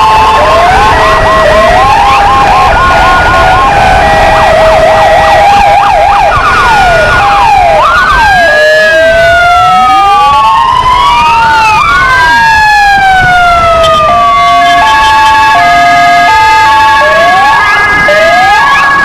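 Four sirens sounding together: two from PFA white police motorcycles and two Kingvox ERP sirens. They run through two-tone hi-lo, fast yelp and slow wail tones that overlap. Midway, slow wails rise and fall across each other before stepped two-tone patterns return near the end.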